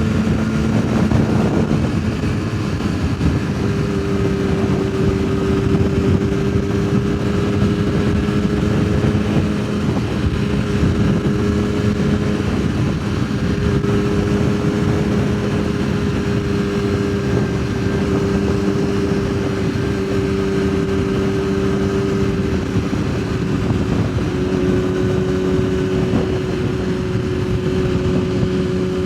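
Yamaha sportbike engine running at a steady cruising speed, its note holding an even pitch, over rushing wind and road noise.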